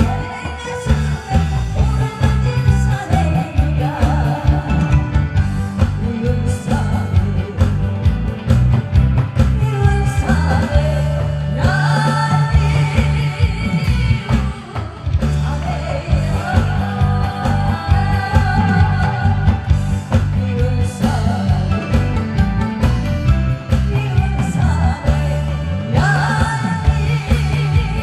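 A woman singing over loud accompanying music with a steady, driving beat.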